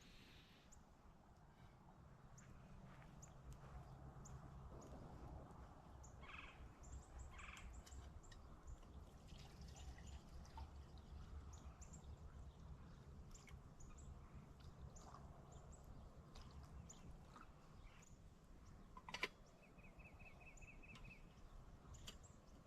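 Quiet woods with faint birds: scattered short high chirps throughout, and a quick trill of evenly spaced notes about twenty seconds in. A single sharp click comes just before the trill.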